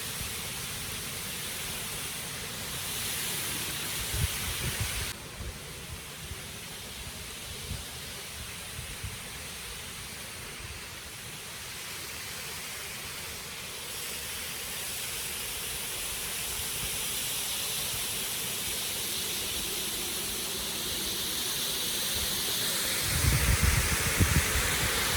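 Rushing water of a waterfall and brook, a steady hiss that grows louder towards the end, with wind buffeting the microphone at times.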